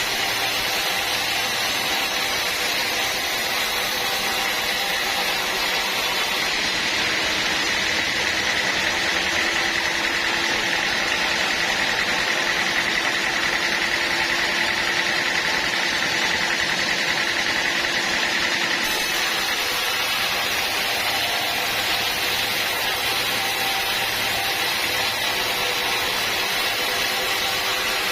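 Sawmill machinery running steadily, with a saw's high whine that grows stronger about a quarter of the way in and eases back about two-thirds of the way through.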